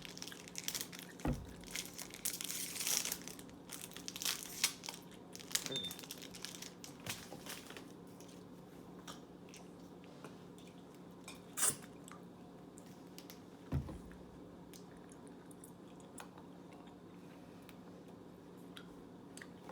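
Plastic candy wrapper crinkling and crackling as it is torn open, thinning to occasional clicks and chewing, with two soft thumps in the second half. A faint steady hum runs underneath.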